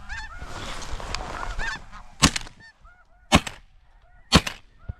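Three shotgun blasts about a second apart over a background of snow goose calls, preceded by a second or so of rushing noise. The shots bring down two blue-phase snow geese.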